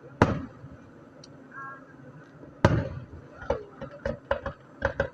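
Aerial fireworks shells bursting: a sharp boom just after the start, a second, bigger boom with a long tail about two and a half seconds in, then a scatter of quick crackling pops.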